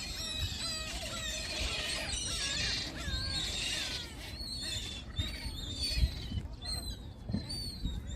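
A dense chorus of many small birds chirping and calling at once: short, high, gliding calls overlapping throughout, over a low outdoor rumble.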